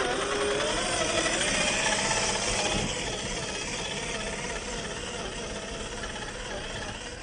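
Axial SCX10 III RC crawler's 45T 540 brushed motor and gear drivetrain running with a whine whose pitch wavers with the throttle, over a rough mechanical noise. Louder for the first three seconds, then quieter and slowly fading.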